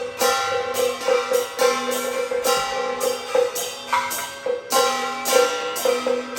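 Beiguan ensemble music: a held, pitched melody over quick, even strikes of percussion, about two to three a second.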